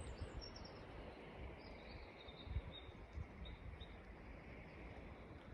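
Small birds calling overhead: a scatter of short, high chirps over a faint outdoor background, with a few low bumps on the microphone, the loudest about two and a half seconds in.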